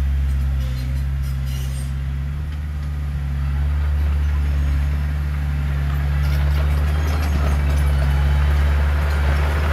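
Heavy diesel engine of earthmoving machinery running steadily at a constant pitch, with added clatter and rattling from about six seconds in.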